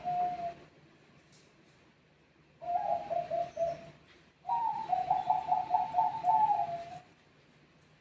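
Zebra dove (perkutut of the Thai-bred Bangkok song type) cooing in rapid pulsed phrases: one call trails off just after the start, a short phrase follows about two and a half seconds in, and a longer phrase runs from about four and a half to seven seconds.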